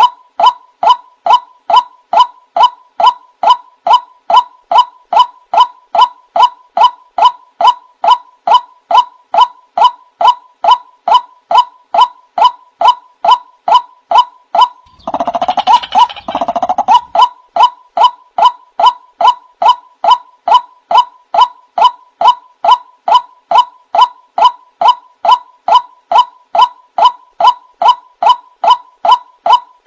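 Male white-breasted waterhen calling: a short, loud croaking note repeated evenly about twice a second, with a denser, rougher stretch of calling lasting a couple of seconds about halfway through.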